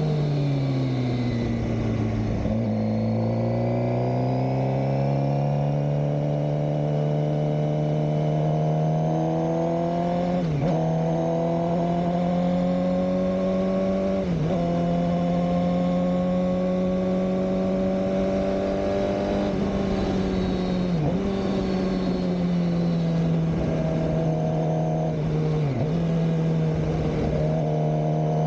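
Suzuki GSX-R600 K7 inline-four engine heard onboard while riding. The revs fall over the first couple of seconds, climb back and then hold fairly steady, with brief dips in the engine note about four times.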